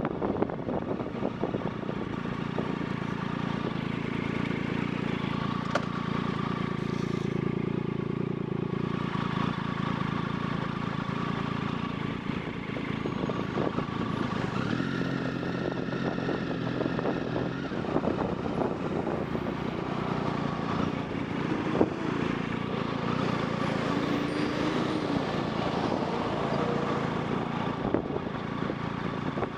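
Steady road and wind noise from a bike on the move, with an engine's steady hum growing louder for a few seconds about halfway through.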